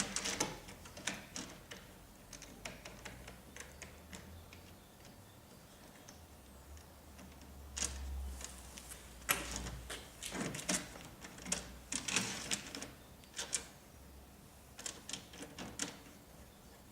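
Irregular clicks, taps and small knocks of router-table parts being handled and fitted, coming in short clusters with pauses between them.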